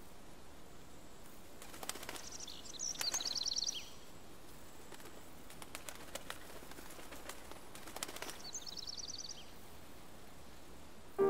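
Small birds calling outdoors: two short bursts of rapid, high chirping notes a few seconds apart, with a few soft clicks over faint steady background hiss.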